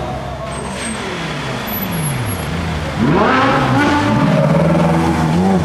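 Ferrari California's V8 engine, its pitch falling and rising for the first few seconds, then a sudden loud rev about three seconds in followed by a run of quick throttle blips.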